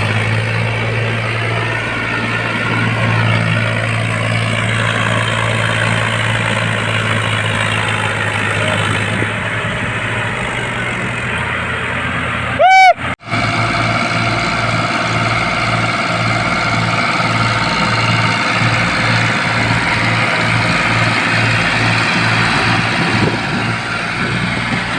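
Diesel tractor engines running hard under load as two tractors pull against each other in a tug-of-war. The engine sound is steady at first. After a short sharp click about halfway through, it throbs about twice a second.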